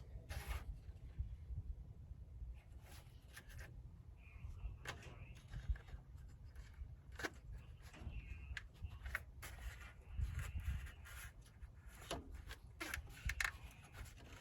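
Scattered light clicks, taps and rubbing of hand work with tools, over a low steady rumble.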